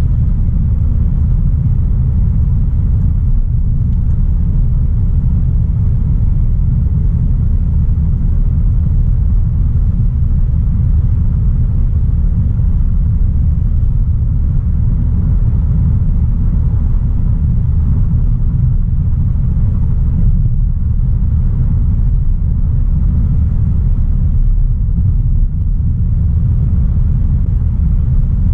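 Steady low rumble of a 2016 Audi A3 Sportback 1.4 TFSI driving along: its turbocharged four-cylinder petrol engine together with tyre and road noise.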